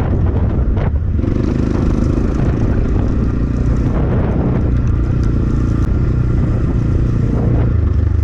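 Templar X 250 dirt bike engine running steadily under way, with wind rumbling heavily on the microphone.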